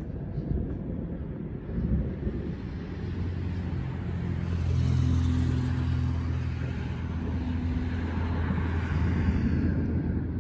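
A motor vehicle's engine hum with tyre and road noise over a low rumble. The hiss swells about midway and again near the end, as a vehicle goes by.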